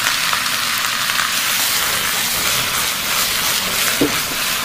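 Sliced sea-snail meat with scallion and ginger frying in hot oil in a wok: a steady, loud sizzle, with a short knock about four seconds in as flames flare up in the pan.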